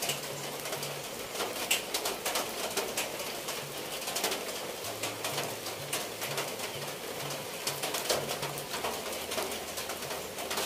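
Steady rain with sharp drips spattering off the roof, and a dove cooing in low, repeated notes.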